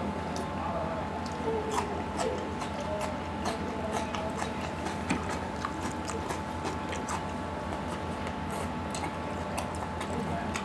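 Close-miked chewing of chicken curry and rice eaten by hand: wet mouth and lip clicks and smacks, scattered irregularly throughout, over a steady hum.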